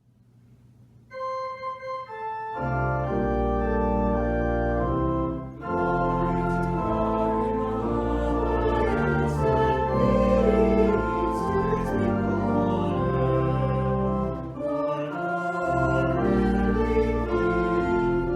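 Church organ playing: a single held note comes in about a second in, then full sustained chords over a deep pedal bass from about two and a half seconds.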